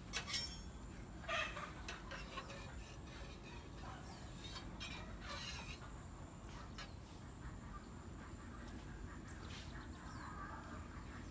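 Domestic fowl calling faintly now and then over a steady low hum, with a couple of sharp clicks in the first second and a half.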